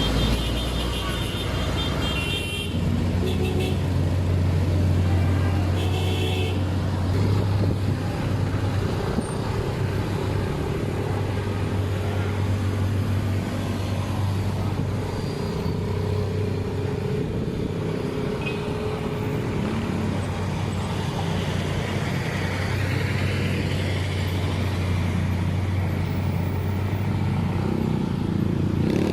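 Road traffic on a hill climb: vehicle engines running with a steady low drone as vehicles pass, with a few short horn toots in the first several seconds.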